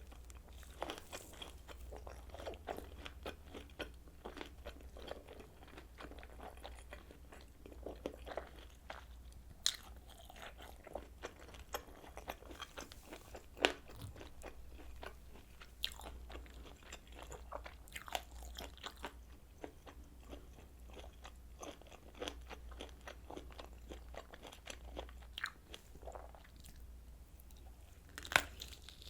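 Close-miked chewing and biting of kielbasa sausage: a dense run of small wet clicks and crunches, with a few sharper, louder bites standing out. A steady low hum runs underneath.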